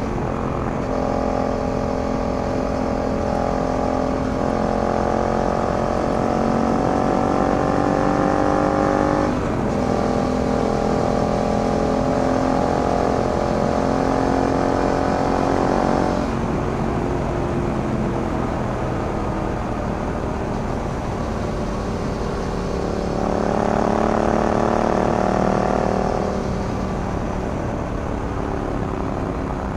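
Yamaha MT-07's 689 cc parallel-twin engine through an Akrapovic carbon full exhaust, pulling up through the revs for about eight seconds, breaking briefly for a gear change, then pulling again for several seconds. It then eases off, leaving wind and road noise for several seconds, before the engine pulls up once more and fades near the end.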